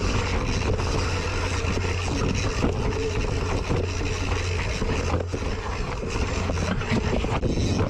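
Wind buffeting a GoPro microphone on a mountain bike ridden downhill, with steady tyre roar on the dirt trail and occasional knocks and rattles from the bike.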